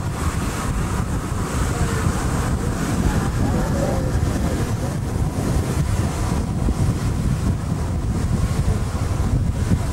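Wind buffeting the microphone aboard a lake paddle steamer under way, a steady low rumble with the boat's running and water noise beneath it.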